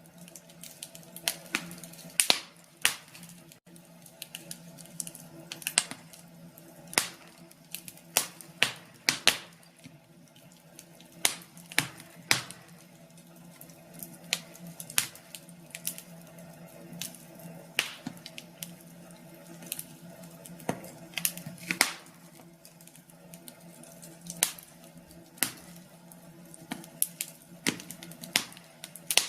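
Wood fire crackling: irregular sharp pops and snaps, some louder than others, over a steady low hum.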